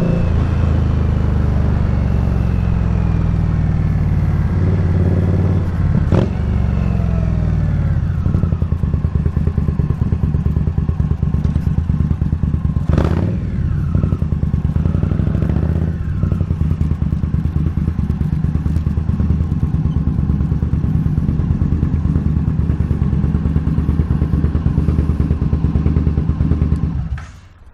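Indian Scout Bobber's V-twin engine slowing down with falling revs, then idling with an even pulsing beat, with a couple of sharp clicks, before it cuts off near the end.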